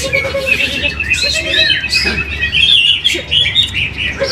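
Greater green leafbird (cucak hijau) singing a fast run of chirps and short sliding notes, overlapped by several other caged songbirds singing at once.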